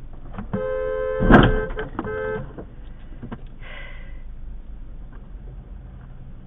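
Car horn sounding for about two seconds, briefly broken near the end, with a loud bang about a second in over steady traffic noise.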